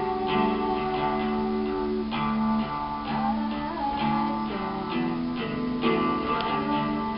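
Acoustic guitar music, plucked notes and strums with the notes changing every second or so.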